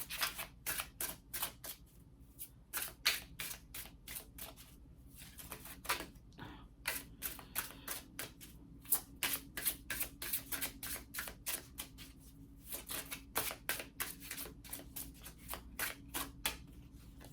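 A deck of oracle cards being shuffled by hand: a long run of quick, irregular clicks and slaps of card on card.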